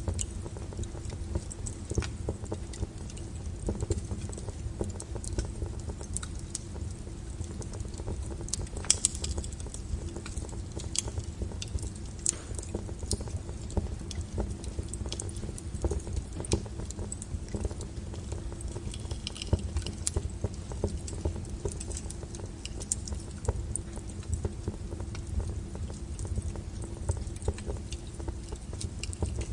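Wood fire burning, crackling and popping irregularly over a low steady rumble, with one sharper pop about nine seconds in.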